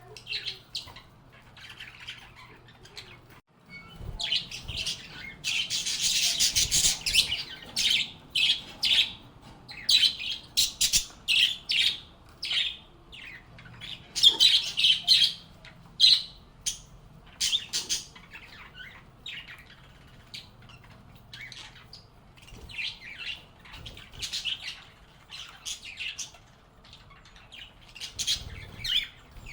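Lovebirds chirping and squawking in quick runs of short, high-pitched calls, loudest and densest about six seconds in and again around fifteen seconds.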